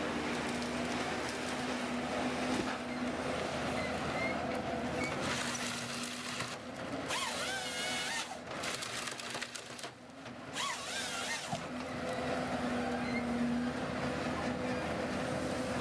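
An engine or motor-driven machine running steadily, with a constant hum under a noisy mechanical wash. A few brief wavering high-pitched sounds come in around the middle.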